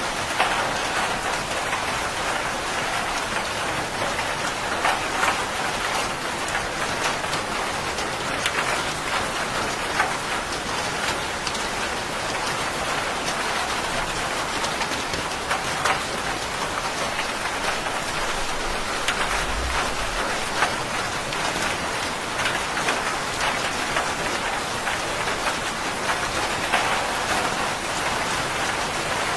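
Steady rain falling and pattering on surfaces, with scattered sharper drop hits. A brief low rumble of distant thunder comes about two-thirds of the way through.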